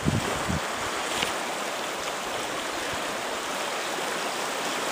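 Steady rush of a river running bank-full after high water. There is an extra low rumble during about the first second.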